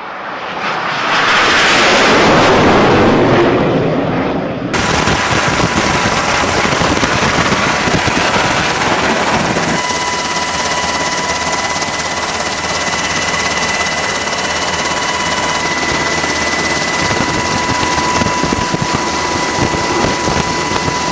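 Jet aircraft noise: a loud roar swells and fades over the first few seconds. After a sudden switch it gives way to a steady loud roar, with thin steady tones added about ten seconds in.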